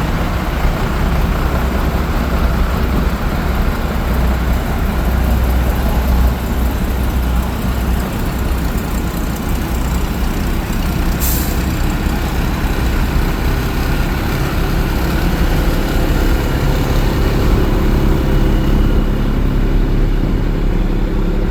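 Heavy fire truck engines rumbling as the trucks move past at low speed, with one brief high hiss about halfway through. In the second half a steadier engine tone comes in.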